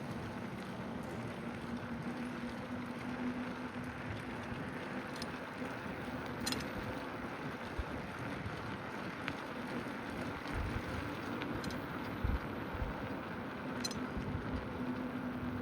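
Steady outdoor road noise heard from a moving bicycle, with a low steady hum through the first half and again near the end. Low thumps of wind on the microphone come about two-thirds of the way through.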